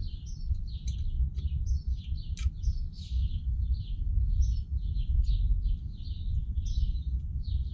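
Small birds chirping in many short, quickly repeated notes, over a steady low rumble, with a few light clicks from metal spokes being handled.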